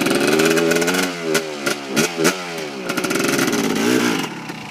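250cc dirt bike engines running and revving on a trail, the pitch climbing and dropping several times as the throttle and gears change. A few sharp knocks come through over the engine.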